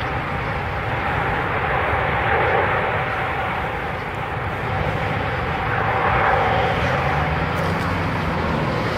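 Aircraft engines running: a steady rushing noise with a held whine through it, swelling a little about six seconds in.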